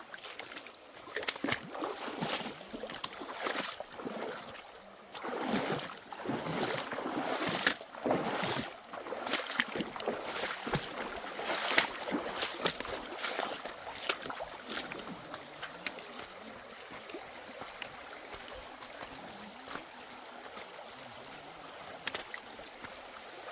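Footsteps, scuffs and sharp knocks on a wet, rocky trail, over the steady sound of running water. The knocks thin out after about fifteen seconds, leaving mostly the water.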